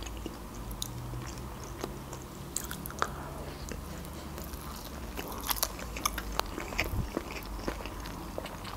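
Close-miked mouth sounds of sushi being eaten: soft wet chewing with small clicks and smacks scattered throughout, over a faint low hum.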